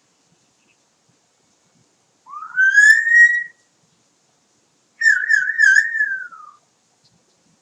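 Double yellow-headed Amazon parrot whistling twice: first a rising whistle that levels off, then, a couple of seconds later, a wavering whistle that falls away at the end.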